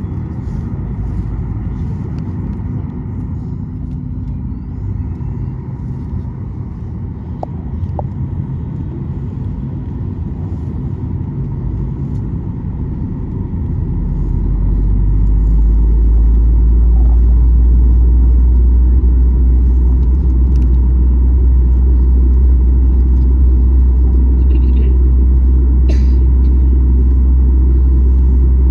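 Cabin noise of a Boeing 737 MAX 8 with CFM LEAP-1B engines: a steady low rumble that swells about halfway through, as the engine noise builds, and then holds at the louder level.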